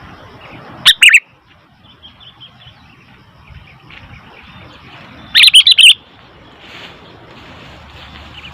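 Sooty-headed bulbul calling: two loud, short bursts of quick whistled notes, one about a second in and a longer run of several notes around five and a half seconds in.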